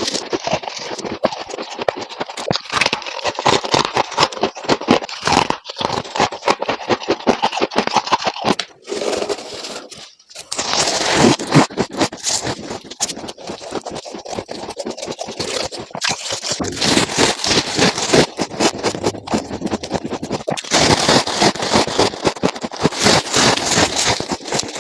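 Frost ice from a refrigerator freezer being scraped and crunched between the teeth: a dense run of close-miked crackling and crunching strokes, with a short pause about nine seconds in.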